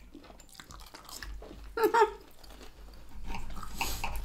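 Close-up chewing and crunching of food, with a bitten onion ring being eaten. A brief voiced sound about two seconds in, and the chewing grows denser near the end.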